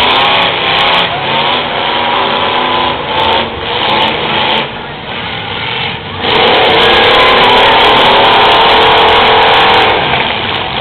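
Demolition derby car engines running and revving, with wavering pitch. The sound grows louder and steadier about six seconds in.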